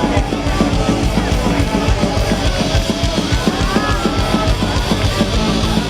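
Live rock band playing loudly, with fast, busy drumming and distorted guitars.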